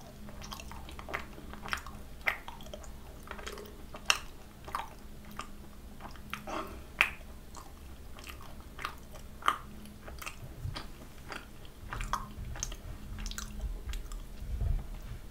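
Close-miked chewing of a macaron: irregular soft clicks and smacks of the mouth. A low bump comes near the end.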